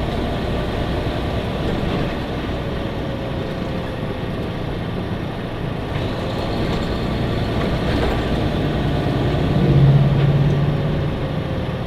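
A truck's engine and road noise heard from inside the cab while driving: a steady drone whose pitch slowly sinks, with a louder low hum swelling about ten seconds in.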